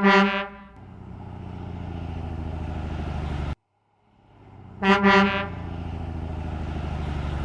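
Truck sound effect, likely the toy garbage truck's: a short horn honk followed by a steady engine rumble, which cuts off suddenly, then repeats with a second honk and rumble.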